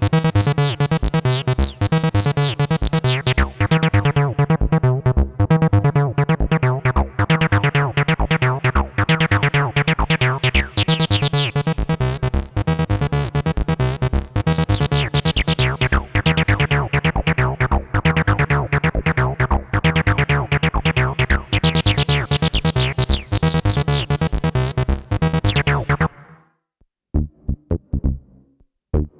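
Behringer TD-3-MO, a 303-style bass synthesizer, playing a fast repeating acid bassline, its filter opening and closing so the notes brighten and dull in sweeps. The pattern stops abruptly and a sparser, quieter pattern starts near the end.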